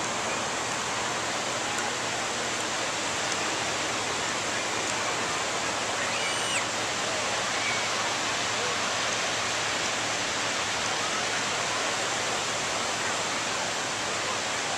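Ocean surf breaking on the beach, a steady wash of noise with no pauses, with a brief faint high call about halfway through.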